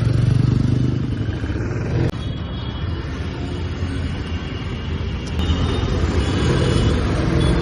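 Royal Enfield Classic 350's single-cylinder engine and exhaust running under way, a low rumble heard from the rider's seat. The sound drops sharply for an instant about two seconds in, then runs on and grows louder again from about five seconds in.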